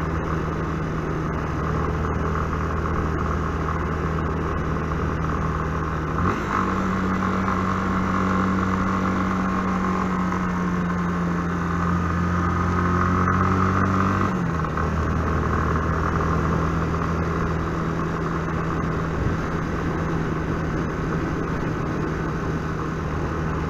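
Yamaha Fazer 250 motorcycle's single-cylinder engine running at a steady cruising speed, with wind and road noise. About six seconds in the engine note steps up and holds higher, then drops back about eight seconds later.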